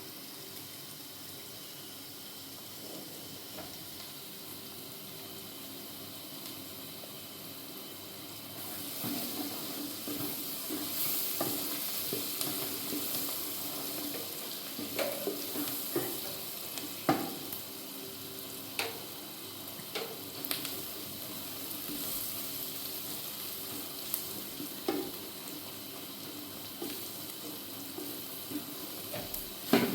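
Food sizzling as it fries in a pan. The sizzle gets louder about a third of the way in, with scattered clicks of a utensil against the pan.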